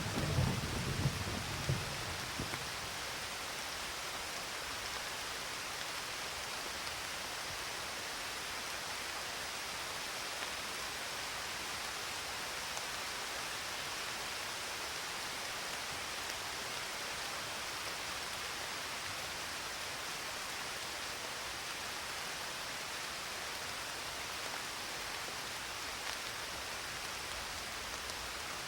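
Steady rain falling, an even hiss with no breaks, as the low rumble of a thunderclap dies away over the first couple of seconds.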